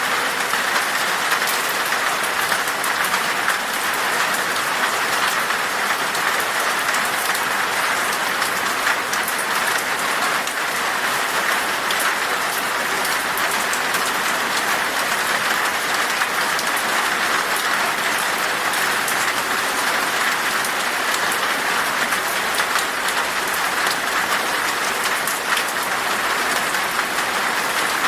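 Steady rain falling in a forest, an even hiss with many fine drop ticks and no letup.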